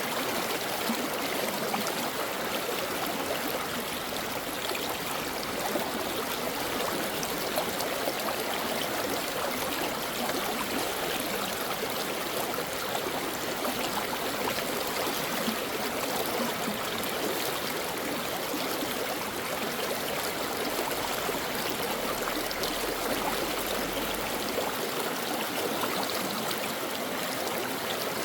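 A shallow stream flowing and babbling over rocks, a steady, even rush of water.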